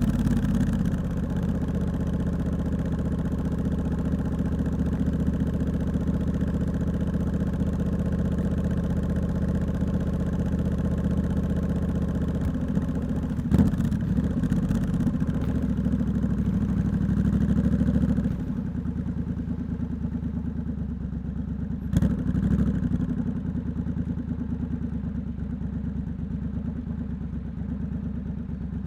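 Triumph Scrambler 1200 X parallel-twin running through a loud aftermarket Hitchcox exhaust at steady part throttle. About two-thirds of the way in the throttle closes and the engine settles to a lower, quieter running. There are two sharp clicks, one about halfway through and one about three-quarters through.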